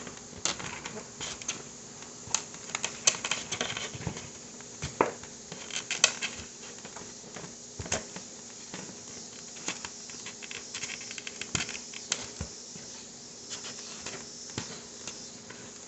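Gloved hands mixing and kneading egg-and-flour dough in a bowl: irregular soft clicks, crackles and taps, over a faint steady hum.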